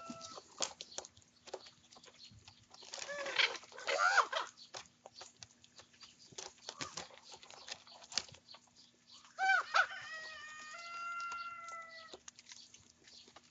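Young ravens calling while squabbling over food: hoarse calls a few seconds in and again near the end, the last one drawn out and steady for about two seconds, among many short sharp clicks.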